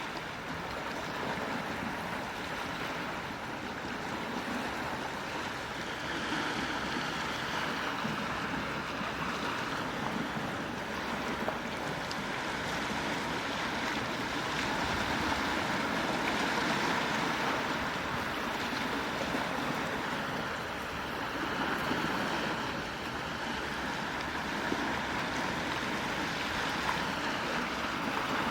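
Gentle sea waves washing onto a shore: a steady hiss of surf that swells and eases slowly every several seconds.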